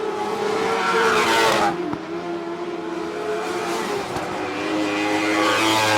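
Lightning sprint cars racing at full throttle, the engines running hard throughout. Cars pass close, louder, about a second in and again near the end.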